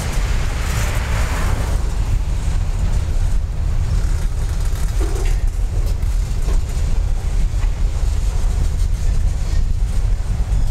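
Freight cars rolling past at close range: a steady low rumble of steel wheels on rail, with a few short clicks and knocks.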